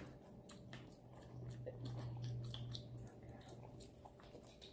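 Quiet eating sounds: chewing, with small clicks and squishes of fingers pulling apart seafood-boil food. A low steady hum sounds for about two seconds, starting about a second in.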